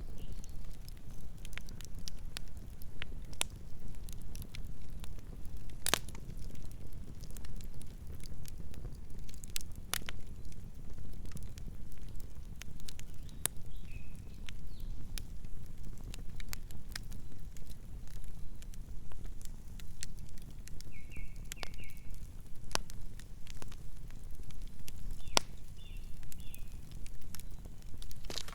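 Wood campfire burning: a steady low rumble of the flames with irregular sharp crackles and pops of the burning wood, the loudest pop about six seconds in.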